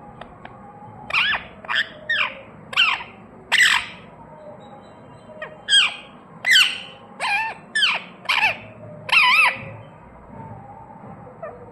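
Pet parrot giving a string of short squawks, each falling in pitch, in two bursts of five or six calls with a short pause between.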